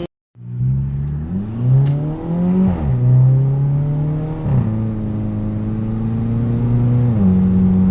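Straight-piped exhaust of a 2014 Volkswagen Jetta 1.8 turbo four-cylinder, muffler and resonator removed, running loud. The revs rise and fall, hold steady, then step up twice.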